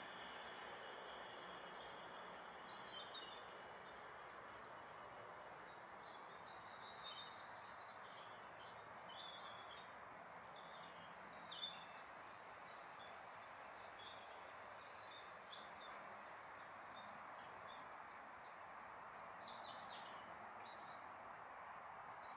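Small songbirds chirping and singing in short scattered phrases over a steady, faint outdoor hiss.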